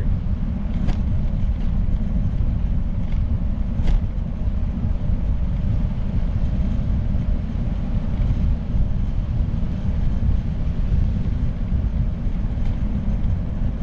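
Wind buffeting the microphone of a bicycle rider descending a long hill at speed: a steady, heavy low rush with no speech.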